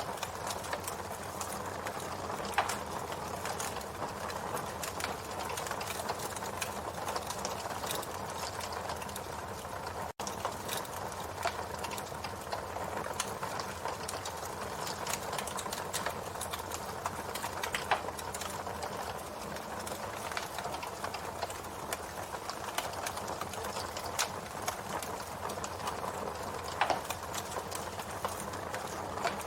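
Campfire crackling steadily, a dense run of small crackles with a few louder pops, one about two and a half seconds in and others later on. The sound cuts out for an instant about ten seconds in.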